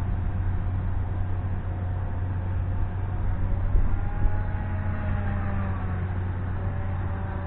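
Horizon Hobby Viking 12 RC airplane's electric motor and propeller whining in flight, the pitch rising about midway and then falling back. Wind rumble on the microphone underneath.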